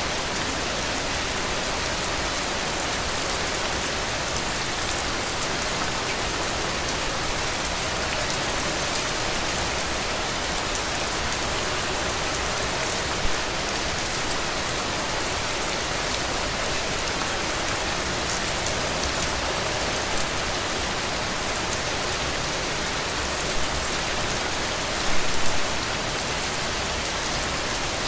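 Heavy rain falling steadily on a roof, an even dense hiss with a few louder drops or splashes now and then, a short cluster of them about 25 seconds in.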